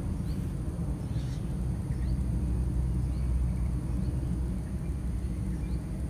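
Steady low rumble with faint, short, high bird chirps scattered through it, about one every second.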